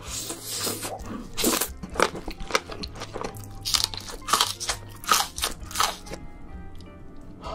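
Close-miked crisp crunching bites and chewing of green onion kimchi stalks eaten with black bean noodle sauce, a run of irregular sharp crunches. Background music plays underneath.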